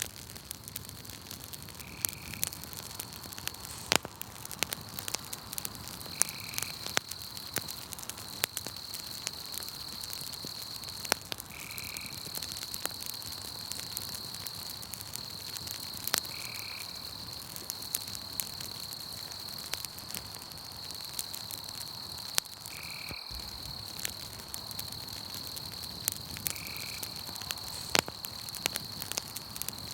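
Campfire crackling with scattered sharp pops, over a steady high insect trill and a short call that repeats about every four to five seconds.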